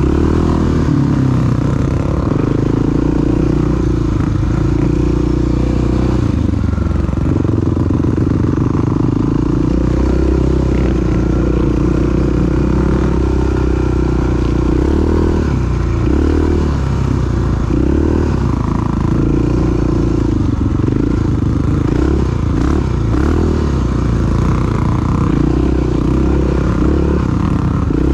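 Single-cylinder dual-sport motorcycle engine running under way. Its note holds steady at first, then rises and falls repeatedly with the throttle from about halfway through.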